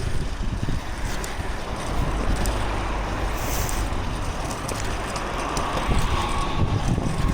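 Wind buffeting the microphone over a steady low rumble of wheels rolling on pavement as the rider is pushed along, with a brief high hiss about halfway through.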